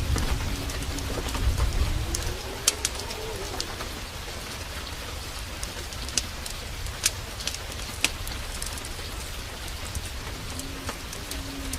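Steady downpour rain with scattered sharp pops and crackles from a wood fire in a fireplace. A faint low call sounds briefly near the start and again near the end.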